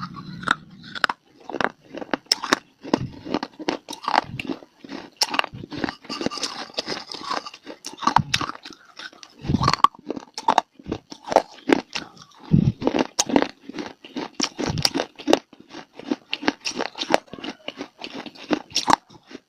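Close-miked mouth sounds of someone biting and chewing hard, dry clay (mitti): irregular crisp crunches, several a second, mixed with deeper chewing.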